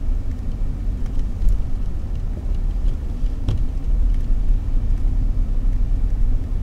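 Steady low rumble of a car being driven, heard from inside the cabin, with a faint click about halfway through.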